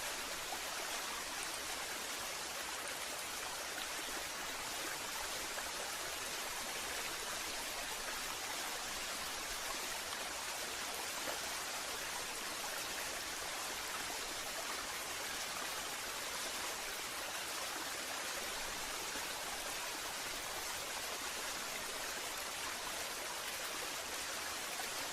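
Waterfall: water falling and rushing in a steady, even hiss with no breaks.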